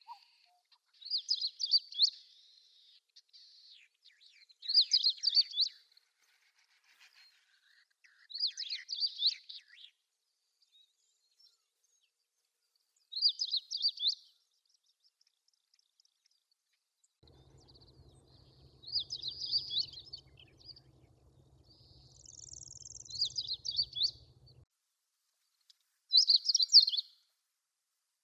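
Long-tailed rosefinch singing short, quick warbled phrases of about a second each, repeated every three to five seconds, seven times in all.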